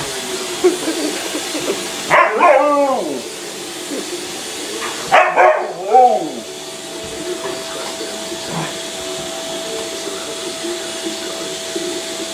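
Vacuum cleaner running steadily while a dog barks at it in two bouts, about two seconds in and again around five to six seconds in.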